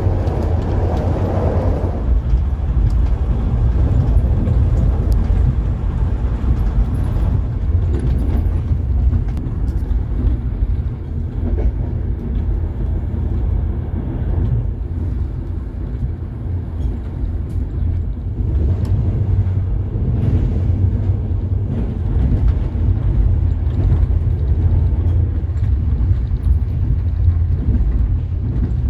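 Running noise of a moving passenger train heard from inside a coach: a steady low rumble from the wheels and running gear, with a few faint clicks.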